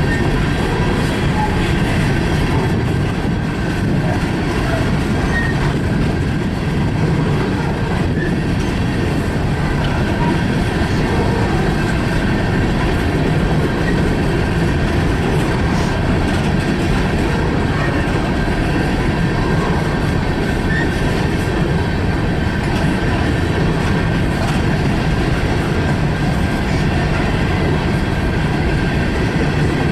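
Freight train cars rolling past at steady speed, wheels clattering over the rail joints, with a faint steady high ring from the wheels.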